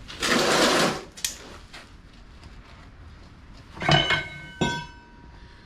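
Metal parts clattering during a rear differential teardown: a short, loud, harsh scrape near the start, then two sharp metal clinks about four seconds in that ring on briefly.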